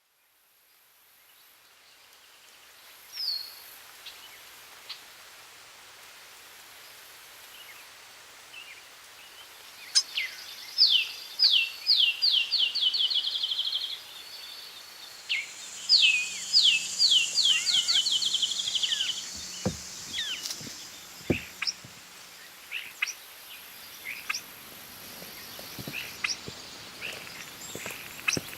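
A songbird singing in the woods: two songs, each an accelerating run of short, high, downward-slurred notes, with a few single chirps and soft ticks and rustles around them.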